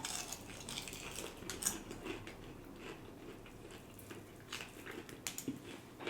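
Close-miked chewing and wet mouth sounds of someone eating, with irregular small clicks and crackles.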